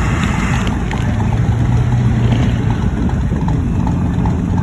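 Vehicle engine running with a steady low drone over heavy road rumble; the drone holds one pitch for a couple of seconds, then settles at a higher pitch.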